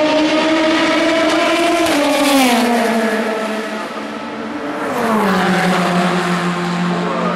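Endurance race car engines at high revs going past, the engine note dropping in pitch twice, about two seconds in and again about five seconds in.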